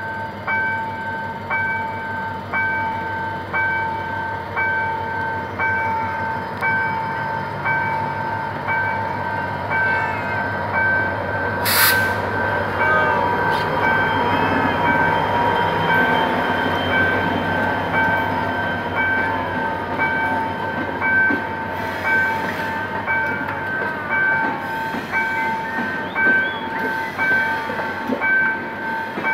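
GM GT22CW-2 diesel-electric locomotive rumbling past as it pulls a passenger train over a level crossing, with one sharp clack about twelve seconds in as it goes by. A level-crossing warning bell rings the whole time, its pulses a little under twice a second.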